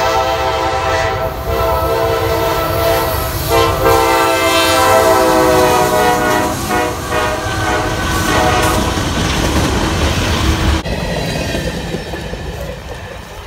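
Diesel locomotive's multi-chime air horn sounding long, loud blasts with a brief break a few seconds in, then stopping suddenly about 11 seconds in. The train rolls past underneath with a steady rumble and clickety-clack of wheels on rail joints.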